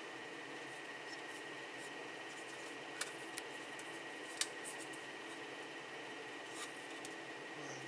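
A few sharp clicks and snaps of PLA support material being broken off a 3D-printed part, the clearest about three and four and a half seconds in. Under them runs a steady hum with a thin high whine.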